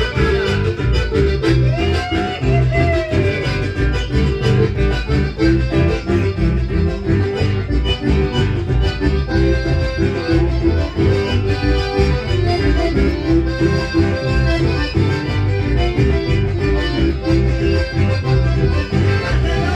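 Latin dance band playing an instrumental passage: an accordion carries the melody over bass and a steady beat.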